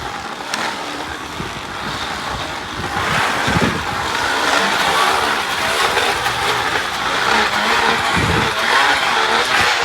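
Plastic water bottles wedged against a spinning bicycle tyre, buzzing like a motorbike engine as the bike is ridden. The buzz grows louder about three seconds in.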